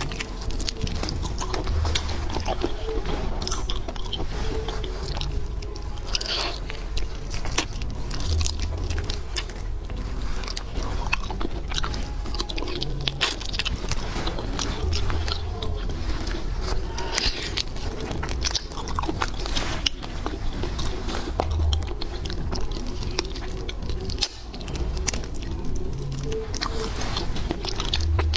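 Close-miked eating of seafood: continuous biting and chewing with wet, crunchy clicking mouth sounds.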